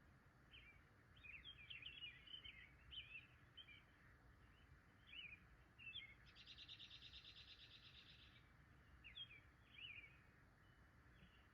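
Faint birdsong: many short chirping notes from several birds, with one rapid trill about two seconds long just past the middle, over a steady low hum.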